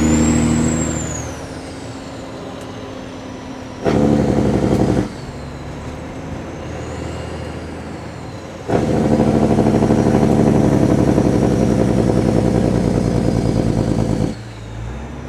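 Kenworth W900 semi's diesel engine through loud exhaust pipes, pulling hard briefly about four seconds in and again from about nine to fourteen seconds, dropping back to quieter running between the pulls. A high, ear-piercing whistle rises and fades at the start.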